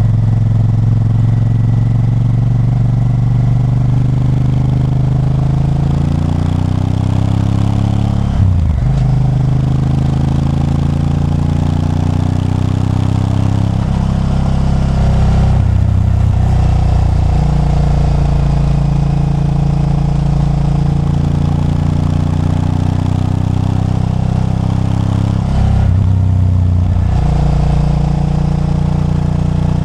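Honda Varadero 1000's liquid-cooled V-twin engine pulling a motorcycle along the road. The engine note climbs under acceleration and drops back at each gear change, about three times, between steadier cruising stretches.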